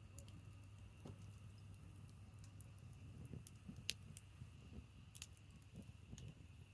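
Faint branch fire burning, with scattered small crackles and one sharper pop about four seconds in.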